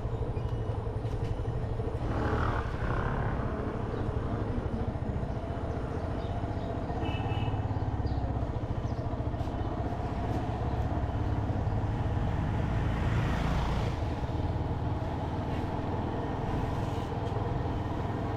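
Motorcycle engine running steadily while riding, with road and wind noise swelling twice.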